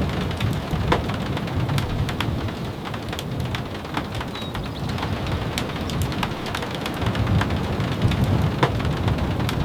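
Steady rain, with many scattered sharp ticks of drops and a low rumble underneath that swells and fades twice.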